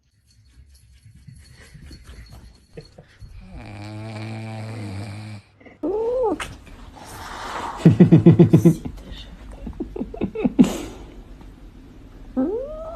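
A pet animal snoring, with short rasping and vocal sounds in between.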